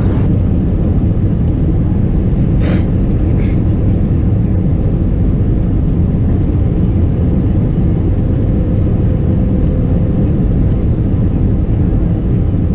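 Steady, loud low rumble of an Airbus A320neo's CFM LEAP-1A engines and the airflow around the airliner in flight. Two brief rustles or clicks come a little under 3 seconds in, and a faint steady hum joins partway through.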